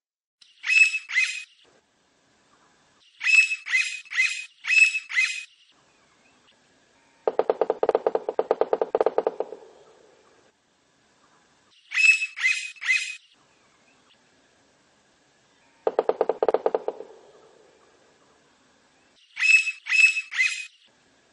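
Blond-crested woodpecker calling in short, sharp, high notes that come in quick groups of two to four. A lower, rapid rattling sound comes twice, lasting about two seconds each time.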